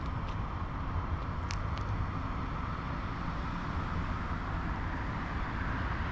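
Steady city traffic noise, a continuous hum and low rumble of vehicles, with a few light ticks or taps about a second and a half in.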